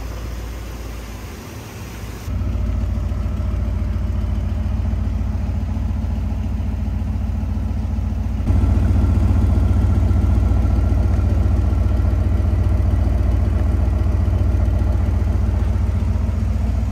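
The 1960 Edsel Ranger's engine idling steadily, a low, even running sound. Its level steps up abruptly about two seconds in and again about halfway through.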